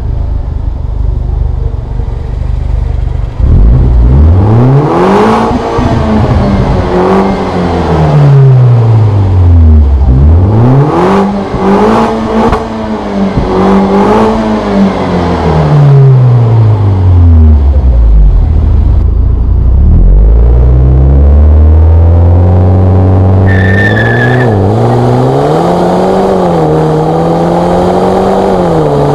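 BMW 316i's four-cylinder engine through a Borla muffler, revved up and let fall back several times, then held at high revs. A brief high-pitched squeal comes in about two-thirds of the way through.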